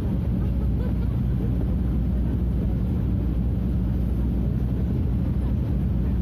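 Scania F250HB bus's DC09 five-cylinder diesel engine running steadily under way, with an even low drone that holds one pitch.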